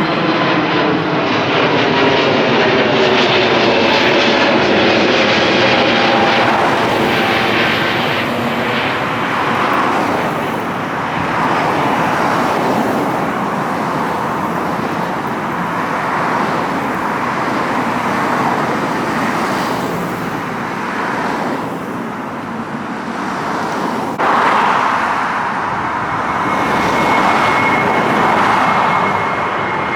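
Jet airliner climbing out low after takeoff, its engines loud throughout. Early on the engine tones fall in pitch as it passes. The sound changes abruptly about 24 seconds in, and a steady high whine comes in near the end.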